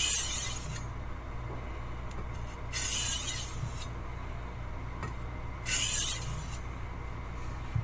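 A 10-inch chef's knife blade drawn across a sharpening stone in three slow pull strokes, about three seconds apart, each a short gritty scrape.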